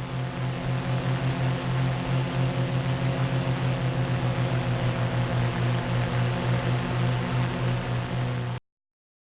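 Quadcopter drone's motors and propellers humming steadily at a constant pitch with a fast regular pulsing and a faint high whine above it; the sound cuts off abruptly near the end.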